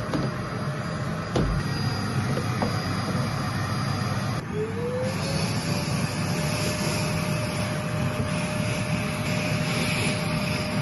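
A machine's motor running with a steady noise. About halfway through, a whine rises slightly in pitch and then holds steady.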